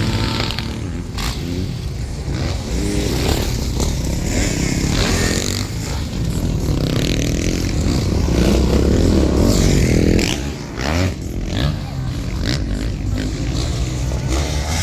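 Motocross bikes racing on the track, engines revving up and down as they accelerate and shift. They are loudest about eight to ten seconds in, then dip briefly.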